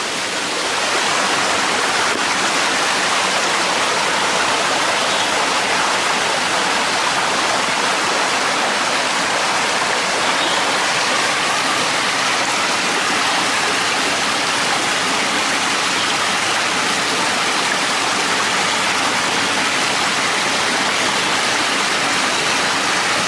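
A small stream running, a steady, loud rush of water that swells about a second in and then holds even.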